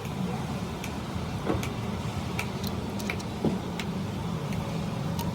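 A steady low engine hum, like a vehicle idling, with scattered light clicks and taps, one a little louder about three and a half seconds in.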